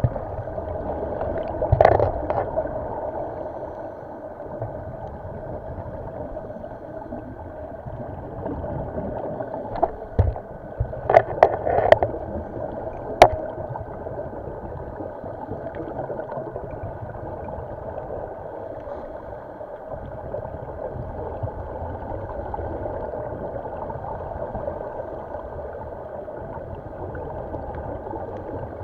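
Muffled underwater noise with a steady hum, broken by short bursts of bubbling from a scuba diver's exhaled air, about two seconds in and again several times between ten and thirteen seconds, with a few sharp clicks.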